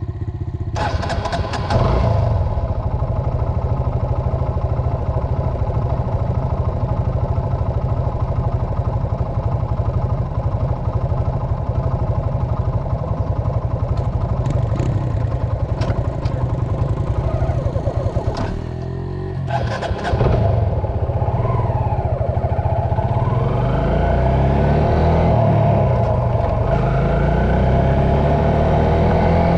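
Dirt bike engine running steadily, with brief loud bursts of throttle about a second in and again about two-thirds through. After that the engine pitch rises and falls repeatedly as the bike revs and rides.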